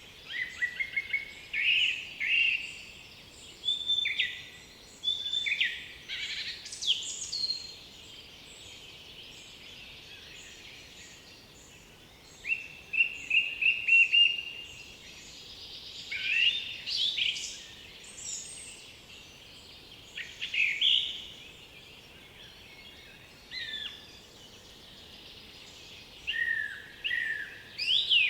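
Several songbirds singing in overlapping short phrases over a faint steady background hiss of the forest. About halfway through, one bird gives a quick run of repeated notes.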